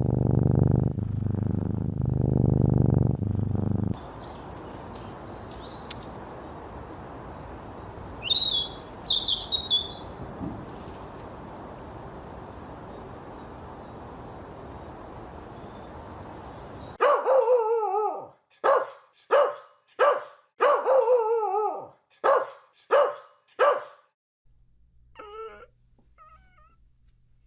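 A string of animal sounds. For about four seconds there is a low, pulsing purr-like rumble. Then comes a steady hiss with scattered high bird chirps. From a little past halfway there is a run of about eight short, loud calls, one roughly every second, followed by faint calls over a low hum.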